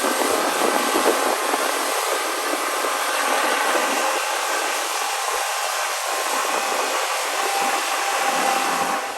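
Steady rushing noise of a motorboat running at speed: wind and water hiss with no engine note standing out.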